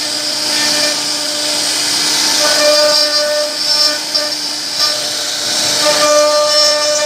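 CNC router spindle running steadily while carving a wooden board, a constant whine with the hiss of the cutter in the wood.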